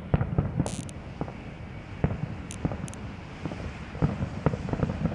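Fireworks going off: an irregular series of sharp pops and bangs, with a few brief high hisses in between.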